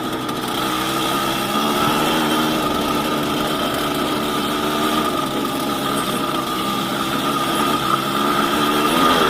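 Yamaha DT200WR single-cylinder two-stroke engine running at part throttle on a ride, its pitch wavering up and down as the throttle changes. The revs climb near the end.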